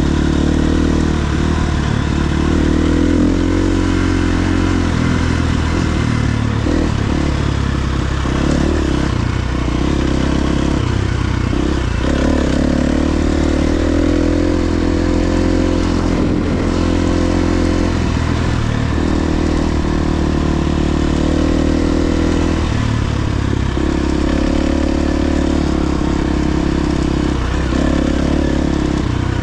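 KTM 350 XC-F dirt bike's single-cylinder four-stroke engine running while being ridden, revs rising and falling repeatedly with throttle and gear changes.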